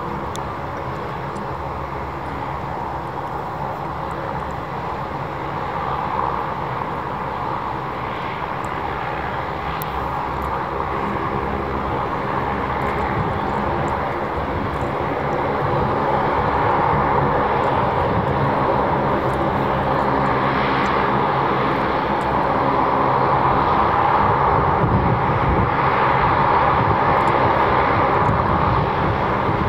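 Boeing 737-800's CFM56 jet engines running, a steady hum of tones under a broad jet noise that grows steadily louder as the aircraft comes closer.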